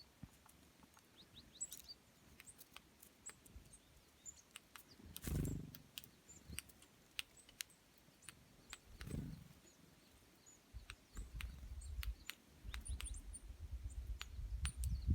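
Small birds chirping, with many short clicks, two louder low sounds about five and nine seconds in, and a low rumble from about eleven seconds on.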